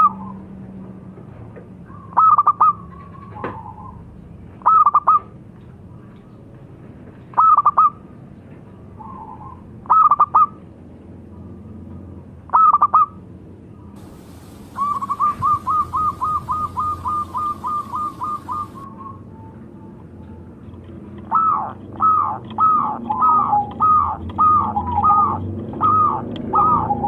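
Zebra dove (perkutut) cooing: short, high cooing phrases every two to three seconds, then a quick run of rapid staccato notes past the middle, and a denser string of coos near the end.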